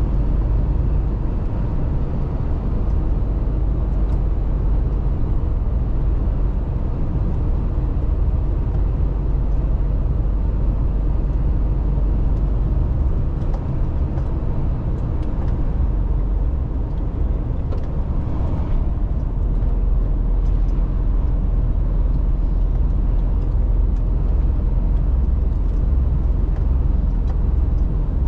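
Mercedes-Benz Actros truck driving along, its diesel engine and tyre noise making a steady low drone.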